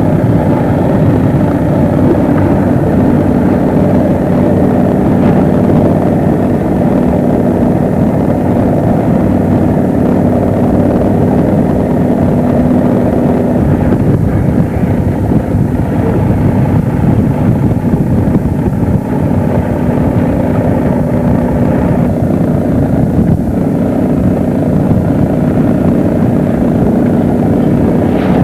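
Motorboat engine running steadily at a constant speed, with wind buffeting the microphone.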